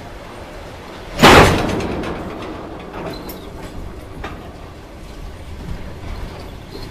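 Tank cars of a freight train rolling past close by, wheels clattering on the rails, with one loud sharp bang about a second in that fades away over the next second, and a few fainter knocks later.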